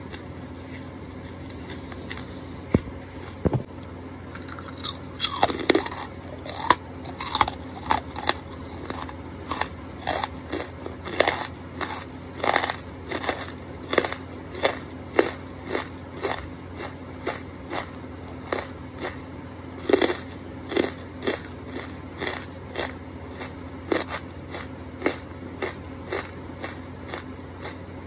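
Close-miked chewing of crunchy charcoal, with a steady run of crunches about one or two a second starting around five seconds in, over a low steady hum.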